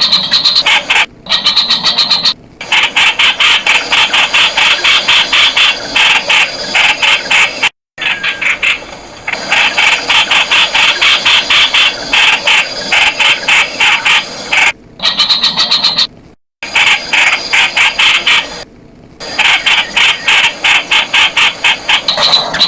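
Streak-eared bulbul calling: fast runs of short, sharp notes, several a second, broken by a few brief pauses.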